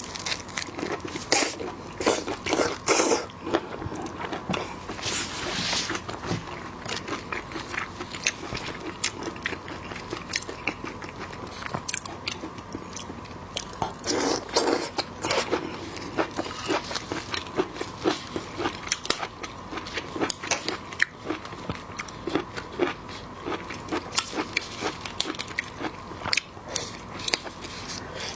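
Close-miked eating of seafood: repeated bites, crunches and wet chewing sounds, with many sharp clicks and short crackling bursts throughout.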